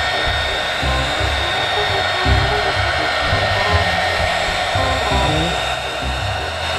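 Heat gun blowing a steady rush of hot air, with a thin steady whine from its fan, over background music with a moving bass line.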